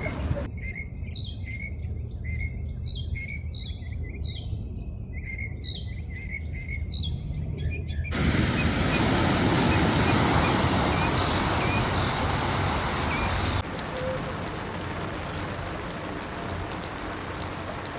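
A songbird singing a run of short repeated chirps, then a sudden cut to a loud, steady rush of water that drops to a softer hiss a few seconds later.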